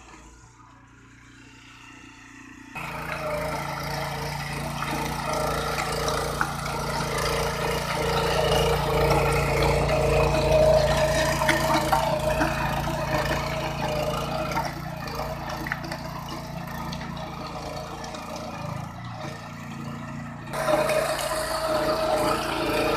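Engine of a BCS 730 two-wheel power tiller running steadily with a clattering mechanical noise. It comes in suddenly and loud about three seconds in, after a quieter start, and jumps louder again near the end.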